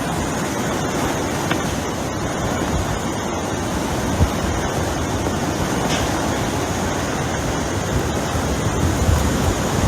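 Hurricane wind blowing as a loud, steady rush, with a brief knock about four seconds in.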